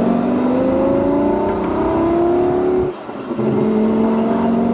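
Straight-piped Lamborghini Gallardo Superleggera V10 under way, its note rising steadily for nearly three seconds. The sound breaks off sharply for a moment about three seconds in, then settles into a steady, lower-pitched drone.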